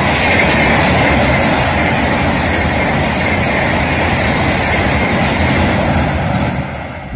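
Passenger train coaches rolling over a steel girder railway bridge: a loud, steady rumble with a high ring over it, falling away near the end as the last coach passes.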